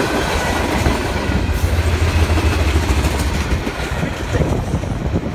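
The last cars of a Norfolk Southern freight train, tank cars among them, roll past on the rails with a heavy rumble and wheel clatter. The low rumble eases about three and a half seconds in as the train clears.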